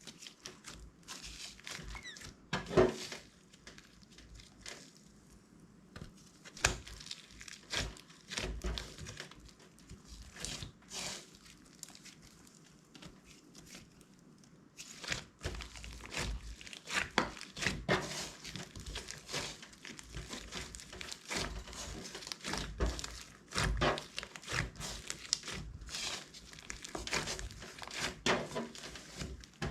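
Clear slime being squished, stretched and folded by hand, making irregular sticky clicks, crackles and pops. It is sparser early on and gets busier about halfway through.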